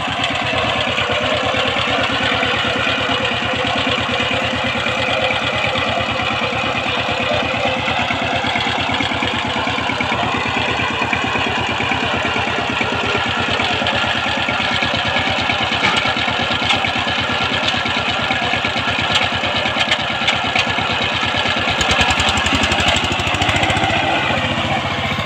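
Power tiller engine running steadily at a constant, even chugging pace, its pitch shifting slightly a couple of times.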